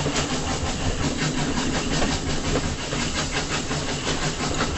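Water pouring out of a cut bank in the hillside, a steady splashing rush.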